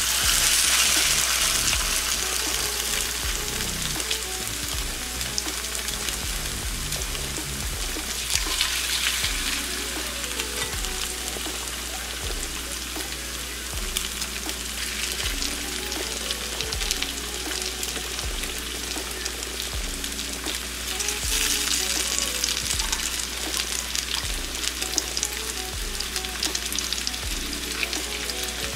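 Beef pieces sizzling in hot oil and minced garlic in a nonstick frying pan. The frying hiss swells when the meat is moved with tongs: at the start, about eight seconds in, and again about twenty-one seconds in.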